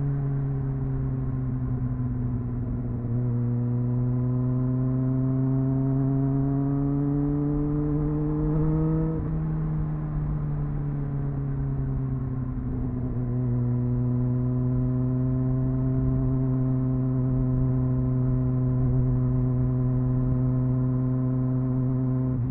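Triumph Speed Four's 599cc inline-four engine on its stock exhaust, heard onboard while riding. It pulls with a slowly rising pitch for about nine seconds, drops back as the throttle eases, then holds a steady cruising note from a little past halfway.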